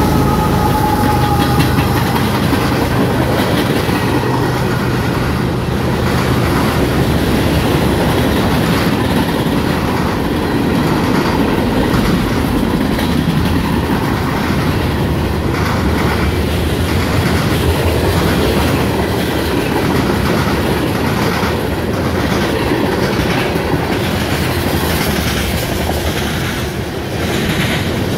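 Freight train passing close by. A mid-train CSX diesel locomotive's engine runs as it goes past near the start, then a long string of freight cars rolls by with steady rumbling and wheels clacking over the rail joints.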